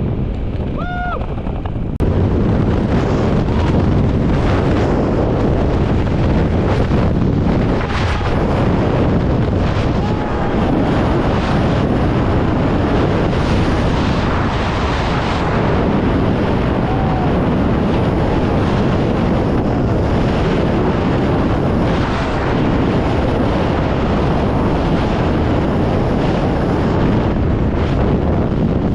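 Loud, steady rush of wind buffeting the microphone during skydiving freefall, stepping up suddenly about two seconds in and then holding.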